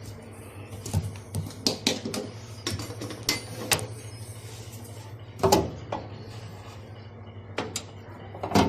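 Scattered clicks and knocks of tools and plastic parts being handled as a washing machine's outer drain hose is refitted, with the loudest knocks about halfway through and near the end. A steady low hum runs underneath.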